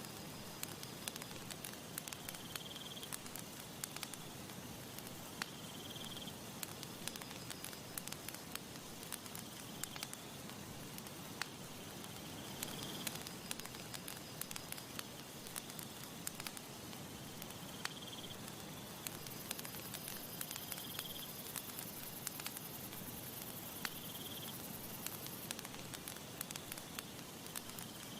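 Campfire crackling, with frequent sharp snaps and pops over a soft steady hiss. A short high chirp recurs every two to three seconds.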